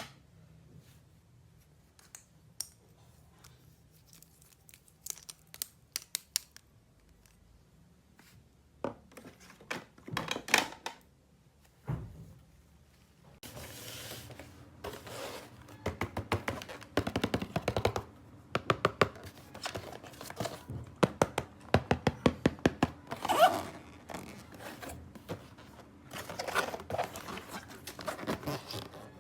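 Plastic toy pieces and packaging being handled: scattered clicks and taps, then from about halfway a denser run of rustling, crinkling and clicking.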